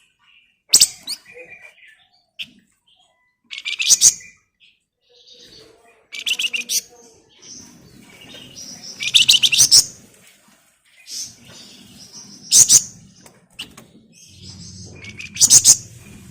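Flamboyan songbird singing in about six short bursts of rapid, high chattering trills, each a second or less and a few seconds apart, with the loudest around the middle and near the end.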